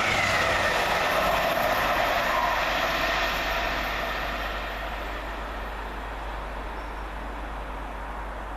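Grand Central Class 180 diesel multiple unit passing at speed, a loud rush of wheel and engine noise with a falling whine near the start, then fading away over a few seconds as the train recedes.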